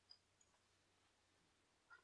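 Near silence with a few faint, short mouth clicks from chewing pizza with the lips closed.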